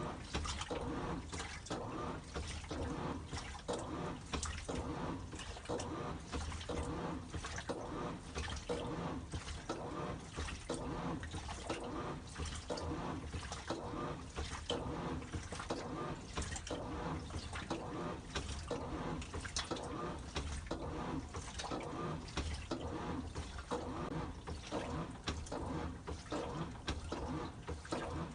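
Washing machine agitating a load, water sloshing in a quick, even, repeating rhythm. The churning has a voice-like quality, as if the machine were speaking.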